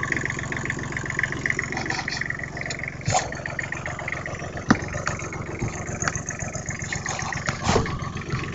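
Freshly rebuilt small diesel engine running steadily, still warming up after a cold start, with a few sharp knocks about three, five and eight seconds in.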